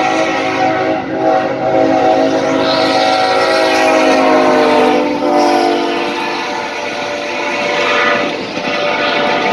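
Diesel locomotive's air horn sounding a chord as the train approaches and passes, its pitch sliding down partway through as it goes by. The horn stops after about six seconds, leaving the rolling noise of the passing train.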